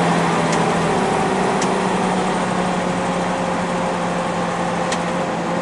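Semi-truck's diesel engine and road noise heard from inside the cab while driving: a steady drone with a low hum. Three faint ticks sound over it.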